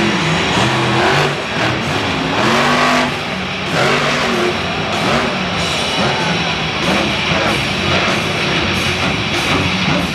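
Monster truck engine revving hard, rising and falling in pitch, over loud heavy rock music from the stadium sound system.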